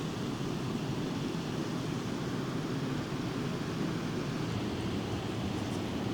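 Steady, even rushing of a waterfall, deepest in the low range and unchanging throughout.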